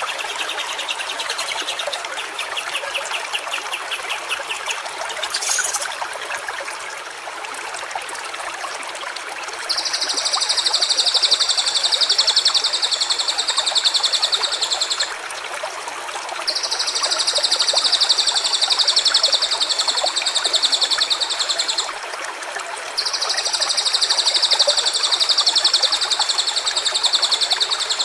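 Water trickling steadily in a small stream. Over it, a short high trill comes in the first few seconds, and then three long, high, evenly buzzing calls of about five seconds each, separated by short gaps.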